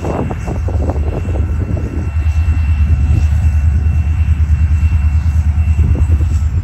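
Diesel freight locomotive's engine rumbling steadily as the train rolls past, getting louder after about two seconds, with a few knocks of wheels over the track in the first second or so.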